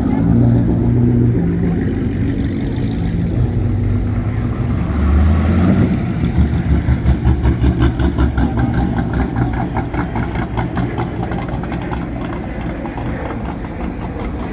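Car engine running with a deep rumble; from about six seconds in the sound pulses a few times a second, then gradually eases off.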